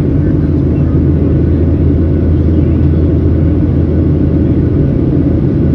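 Steady low rumble of a Boeing 737-700's CFM56 jet engines and airflow, heard inside the passenger cabin.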